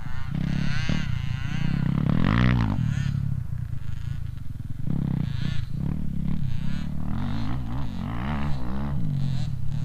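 Motocross dirt bike engine revving up and down as it is ridden around a loop, its pitch rising and falling repeatedly with the throttle.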